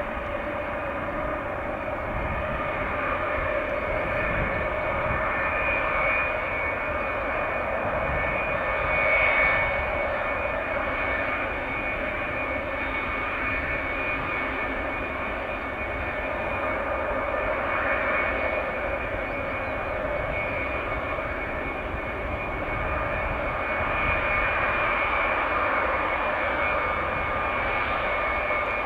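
Boeing E-8C JSTARS's four TF33 turbofan jet engines running: a steady jet rumble and whine with several held tones, swelling slightly now and then.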